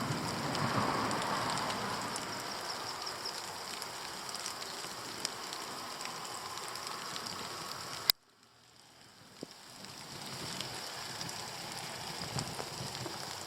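Steady rain falling, with scattered ticks of drops. About eight seconds in there is a sharp click, the sound cuts out suddenly, and the rain fades back in over about two seconds.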